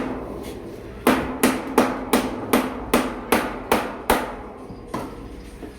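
Hammer blows: one strike, then a quick run of about nine evenly spaced blows, roughly three a second, each with a short ring, and a last blow about a second later.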